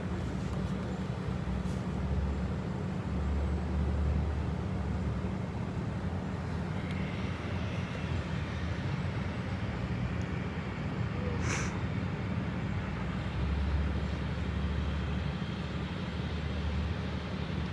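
Steady low drone of engines running at idle, swelling a little now and then, with one brief sharp click partway through.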